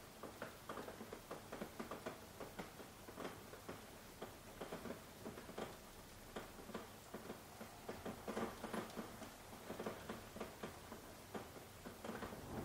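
Soft rain with individual drops pattering and tapping irregularly over a faint, even hiss, growing a little louder near the end.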